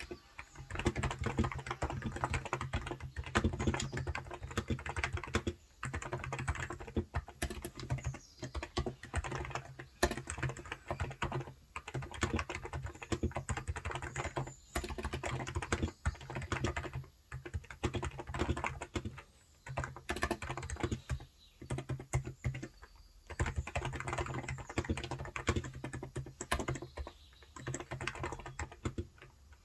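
Fast, continuous typing on a COX Endeavor electrostatic capacitive (Topre-style) tenkeyless keyboard with light 35 g switches: rapid muted key strokes, with short pauses every few seconds.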